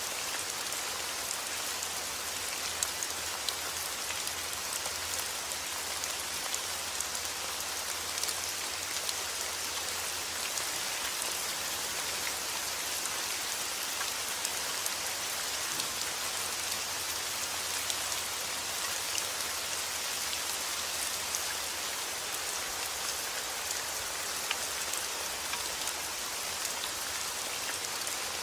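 Heavy rain falling steadily outdoors, an even hiss of rain with many small sharp drop ticks on surfaces.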